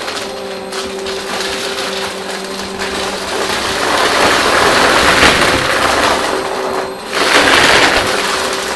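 Vacuum cleaner running with a steady motor hum under a rushing, crackly noise. The noise swells louder about halfway through, dips briefly, then surges again near the end.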